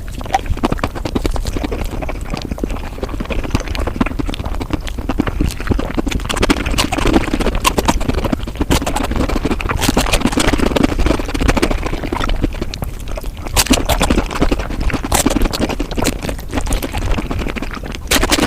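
Mukbang eating sounds sped up about five times: chewing, crunching and mouth smacks run together into a fast, dense stream of clicks over a low rumble.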